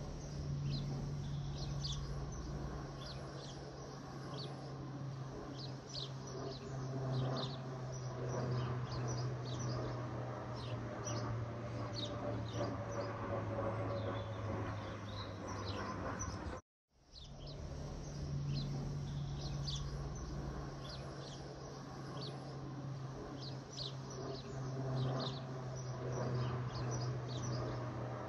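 Birds chirping in short, frequent calls over a steady low hum and background noise. The sound cuts out completely for a moment about two-thirds of the way through, then resumes.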